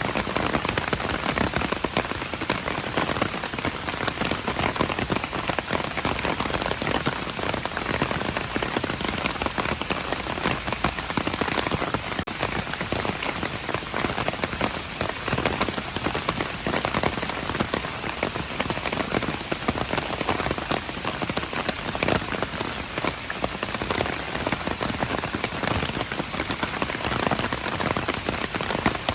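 Steady rain falling on hard surfaces: a dense, even hiss of drops, with many sharper individual drop hits scattered through it.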